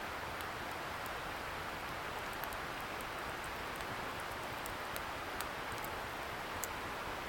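Wood bonfire crackling, with sparse small sharp pops, over the steady hiss of a river a little way off.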